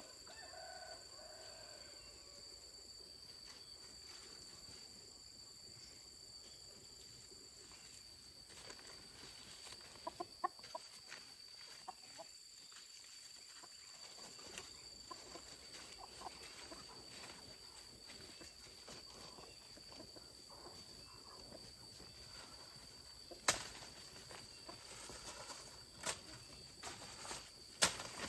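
Chickens clucking now and then, with a few sharp knocks near the end.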